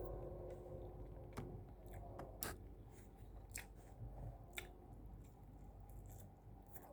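Close-up mukbang eating: a person chewing food in the mouth, with sharp crunches or mouth clicks about once a second over faint chewing.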